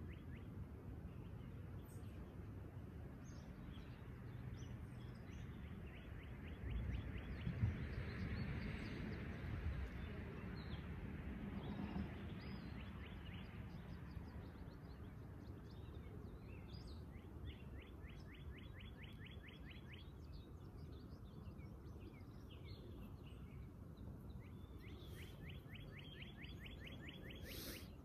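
Quiet outdoor ambience with a small bird singing a dry, rapid trill of even notes, repeated four times for two to three seconds each. A brief rush of noise about eight seconds in is the loudest moment.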